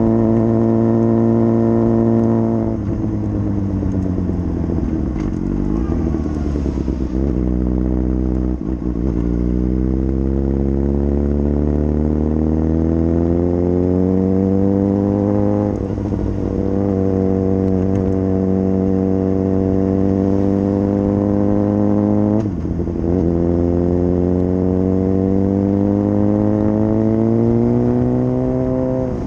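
Suzuki GSX-R600 inline-four engine heard from onboard the motorcycle. Its pitch falls as the bike slows over the first several seconds, then climbs steadily under acceleration, dropping sharply at upshifts about halfway through and again about three-quarters of the way in.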